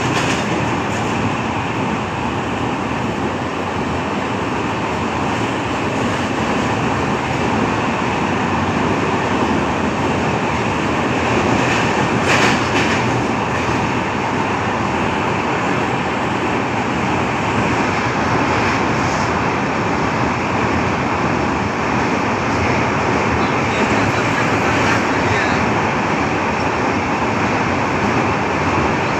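A moving train running steadily: continuous rumble and rattle of the wheels on the track, with a brief louder clatter about twelve seconds in.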